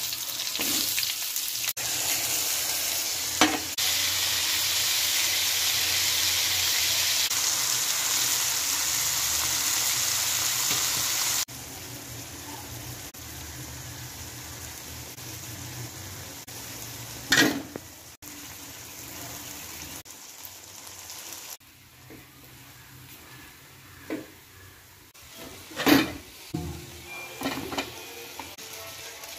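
Sliced onions sizzling loudly in hot oil in an aluminium kadai. About a third of the way in, this drops suddenly to a quieter sizzle as the onion, tomato and masala mixture fries and is stirred, with a few sharp knocks of a steel spoon against the pan.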